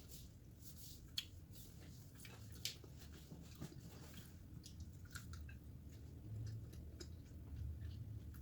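Faint chewing and wet mouth clicks of someone eating, with two sharper clicks about a second and nearly three seconds in. A steady low hum runs underneath.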